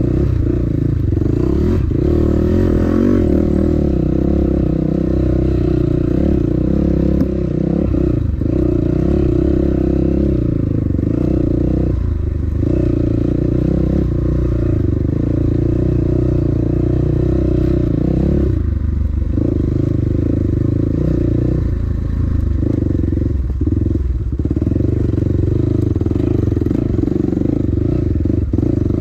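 Dirt bike engine running steadily under load while being ridden, its note dropping briefly a few times as the throttle is eased off.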